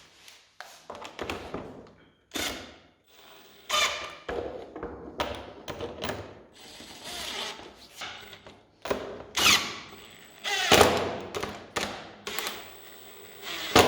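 Irregular clunks, clicks and scraping as an airbag module is fitted into a car dashboard, with a few louder sharp knocks and a brief ratchet-like rattle.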